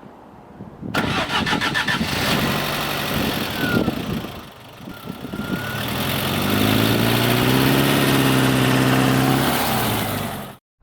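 Mitsubishi Fuso D8AY diesel V8 of a 1995 Hyundai Aero Queen high-decker bus being cold-started. About a second in, the engine cranks and catches, running unevenly with a brief dip. From about six seconds it settles into a steady run, picking up slightly in pitch, before the sound cuts off suddenly near the end.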